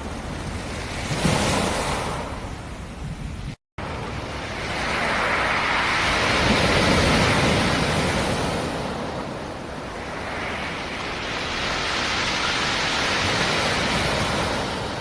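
Black Sea surf: waves breaking and washing up the shore, with a sharp splash about a second in and two long surges of rushing water after it. The sound cuts out for an instant just before the fourth second.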